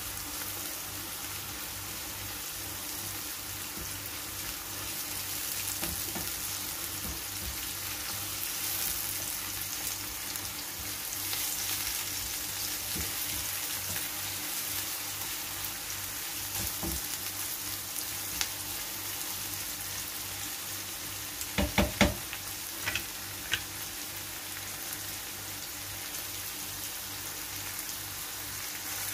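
Diced onion and cubed beef sizzling in oil in a nonstick frying pan as the raw meat sears, stirred now and then with a silicone spatula. A short cluster of sharp knocks comes about three-quarters of the way in, with a few lone clicks around it.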